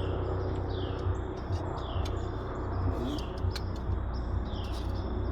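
A bird chirping repeatedly, short calls that slide down in pitch about once a second, over a steady low rumble with a few light clicks.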